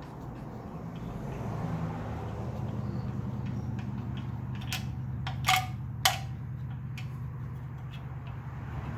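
A motor runs with a steady low hum, and three sharp metallic clicks come in the middle.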